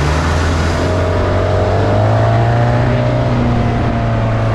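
Bayliner Capri runabout's engine running steadily under way, its pitch lifting slightly about a second in, over a loud rush of noise from the moving boat.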